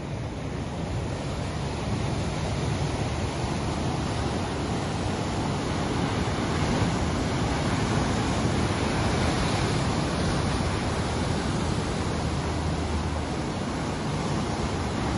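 Ocean surf: waves breaking and washing in a continuous rushing wash that swells over the first couple of seconds and then holds steady.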